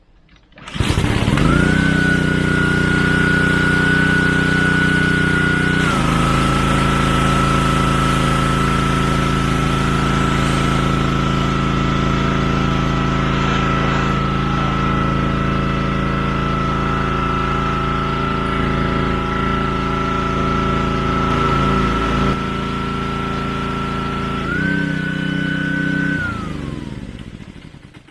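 Pressure washer starting up and running steadily with a high whine over its motor. Its pitch drops slightly about six seconds in and rises again near the end, then it winds down and stops.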